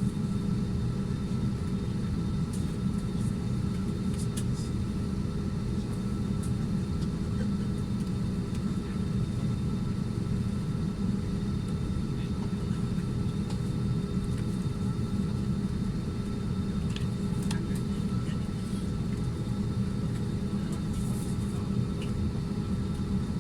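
Steady low rumble of an airliner cabin, the hum of its air-conditioning and ventilation, with a few faint steady tones over it and an occasional small click.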